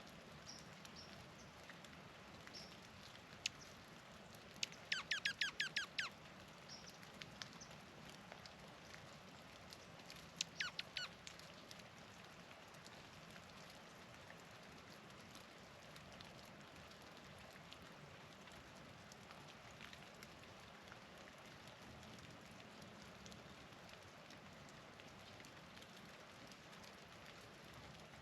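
Songbird calling: a quick run of sharp, steeply sweeping chirps about five seconds in, and a shorter run about ten seconds in, over a faint steady hiss.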